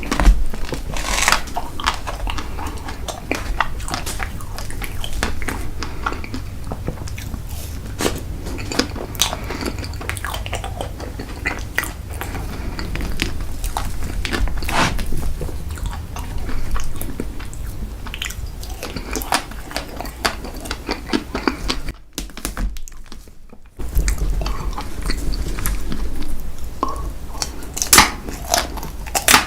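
Close-miked chewing and biting into an ice cream dessert cake, a dense run of crunchy clicks and mouth sounds. The sound drops out for about two seconds about three quarters of the way through.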